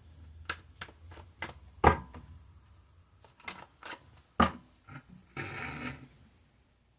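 Tarot cards being handled: a series of light clicks and taps, two of them louder, then a brief rustling slide of cards about five and a half seconds in.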